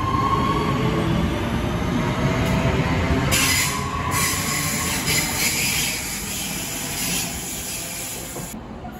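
Passenger multiple-unit train running close alongside a platform: a heavy rumble of wheels on rail, with a thin squeal from the wheels twice and a loud hiss that cuts off near the end.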